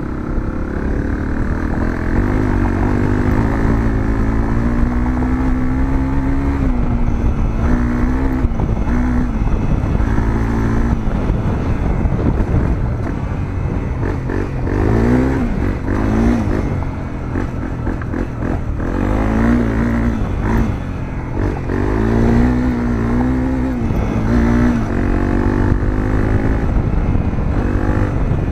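Honda CRF250L's single-cylinder four-stroke engine through a Moriwaki aftermarket muffler, heard onboard while riding: the engine note climbs and drops again and again as the throttle opens and closes and the gears change.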